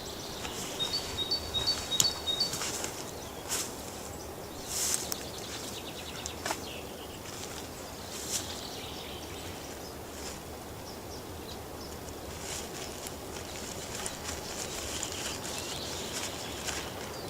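Taiga forest ambience: a bird gives a quick run of about five high notes about a second in, over a faint steady outdoor hush with scattered clicks and rustles.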